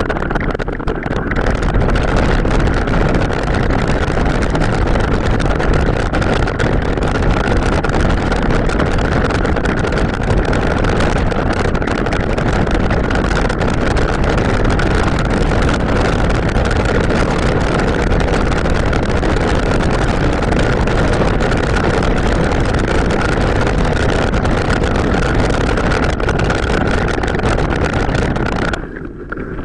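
Wind buffeting the microphone and the rolling noise of a mountain bike ridden off-road, a steady rushing noise with a steady high whine running through it, sped up with the footage. It dips briefly near the end.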